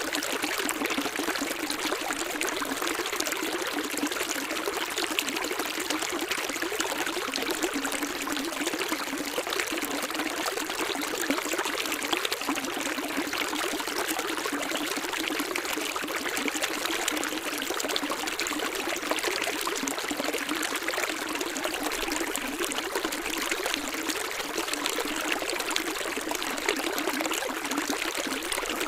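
A small stream's water running and trickling steadily, with a light, hissing character and little low rumble.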